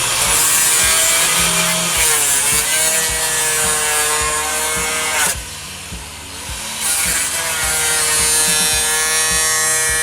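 Handheld electric grinder cutting into a refrigerator cabinet to make a hole for the evaporator pipe; its motor whine sags in pitch as it bites. It runs, eases off about halfway for a second or so, then runs again.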